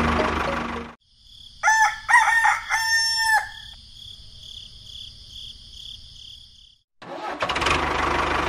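A rooster crowing, about two seconds long, over a steady high-pitched shrill pulsing tone. A loud steady mechanical noise cuts off abruptly about a second in and comes back abruptly about a second before the end.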